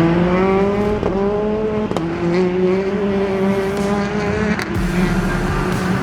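Race car engine accelerating through the gears: its pitch climbs, drops at an upshift about a second in and again about two seconds in, then holds fairly steady.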